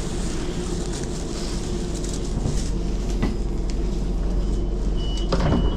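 Electric passenger train running, a steady low rumble with a few sharp clicks and knocks near the end.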